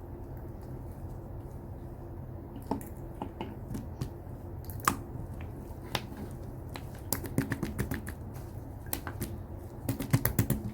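Slime being pressed and stretched by hand, giving sharp clicking pops as trapped air bursts: a few scattered clicks at first, then quick clusters of them near the middle and end.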